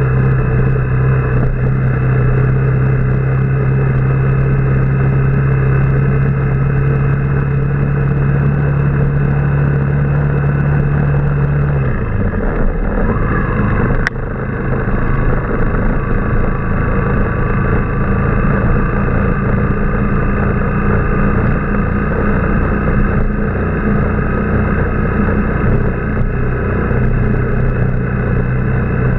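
Motorbike engine running while riding, with a steady rumble of wind and road noise. The engine note falls away about twelve seconds in, a sharp click comes a couple of seconds later, and a steady engine note comes back near the end.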